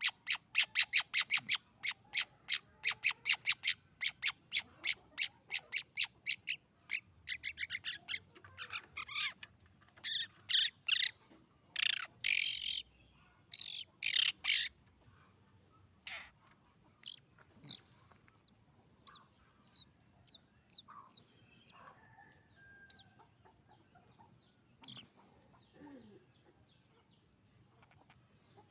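Young long-tailed shrike (cendet) practising its song: a fast run of repeated sharp chirps, about six a second, then harsher, rougher notes, then sparse thin calls through the second half. It is a juvenile just losing its barred plumage, and its song is still unsettled and rough.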